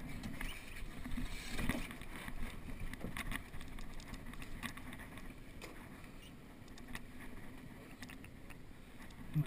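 Water washing along the hull of a small sailboat under way, with scattered light knocks and clicks from the boat.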